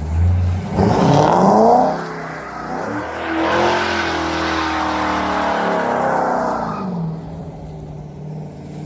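Car engine revving. The pitch climbs about a second in, holds steady through the middle, and drops away near seven seconds.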